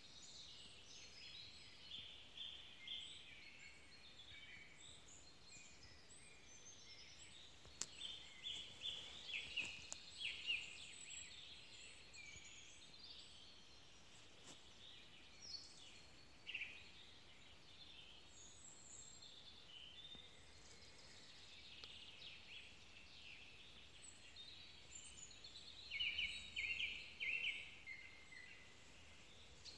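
Faint songbirds singing: short chirps and trills from several birds, busiest about a third of the way in and again near the end.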